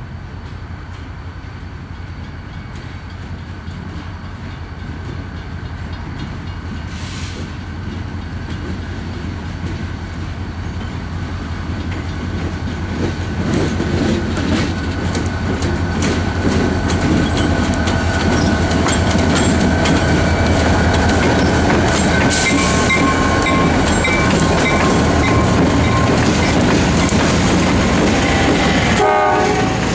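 Freight train drawing closer and passing, growing louder over the first half and then holding steady, with wheels clattering over rail joints, a steady low drone underneath and a few brief wheel squeals.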